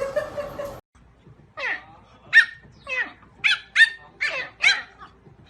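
A dog giving a quick series of about seven short, high yelps, each falling in pitch.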